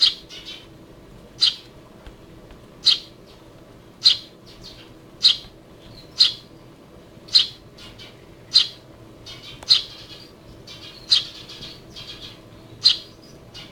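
Hand-fed Eurasian tree sparrow chirping: a short loud chirp about once a second, with softer chirps in between.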